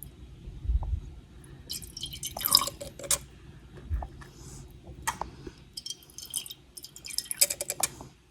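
A small plastic pipette squeezed, sucking up and squirting coloured water, with drips and light clicks against a glass jar. The sounds come in two short crackly spells, about two seconds in and near the end, with scattered single clicks between.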